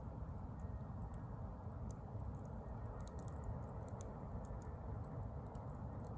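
Bonfire embers smouldering, giving faint, irregular small crackles and ticks over a steady low background noise.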